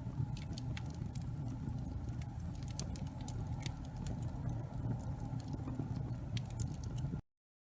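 Fire burning in a fireplace, a steady low rumble with irregular sharp crackles and pops, cutting off suddenly about seven seconds in.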